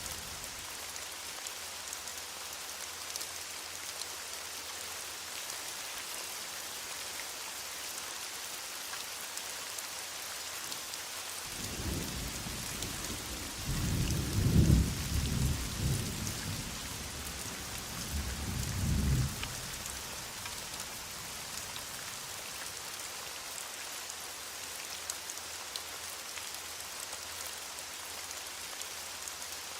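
Heavy rain falling steadily, with a roll of distant thunder starting about twelve seconds in, swelling to its loudest a few seconds later and rumbling on in waves for about eight seconds before it fades.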